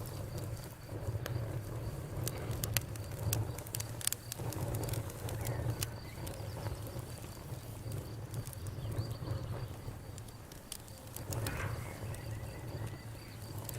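Wood burning in a campfire, crackling with irregular sharp pops and snaps over a steady low rumble of the flames.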